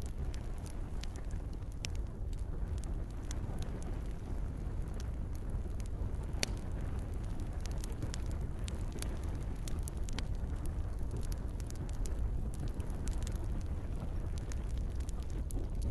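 Campfire crackling: scattered sharp pops and snaps over a steady low rumble, with one louder pop about six and a half seconds in.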